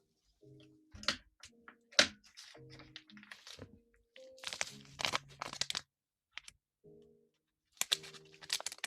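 Adhesive tape and its backing being handled and peeled close to the microphone: irregular sharp crackles and crinkles, with two loud snaps about one and two seconds in and denser runs of crackling later.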